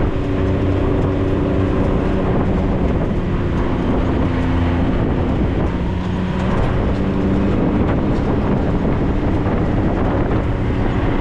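A 4x4 vehicle's engine running under way, heard from on board, with a steady rumble of driving noise; the engine note holds fairly even, drifting slightly up and down in pitch.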